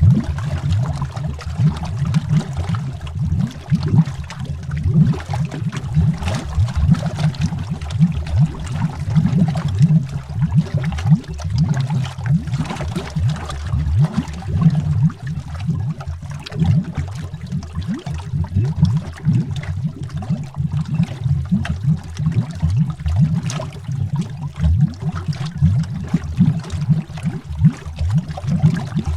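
Underwater bubbles rising in a steady, dense stream, a continuous low bubbling and gurgling with many small quick pops.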